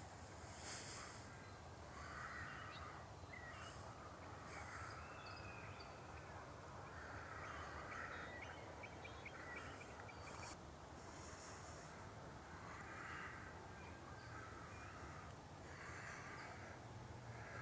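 A bird calling repeatedly, with about six drawn-out, crow-like caws spaced two to three seconds apart.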